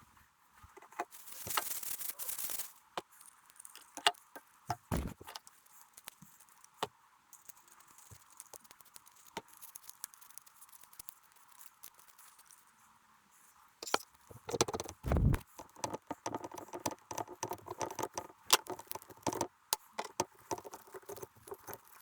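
Hands working on transmission valve-body parts: scattered clicks and knocks of small metal parts set down and handled, with a brief scratchy scraping sound near the start and a busy stretch of clattering and rattling in the second half.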